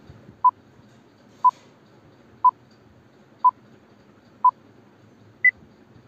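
Countdown timer beeps: five short beeps of the same pitch one second apart, then a sixth, higher beep marking the end of the count.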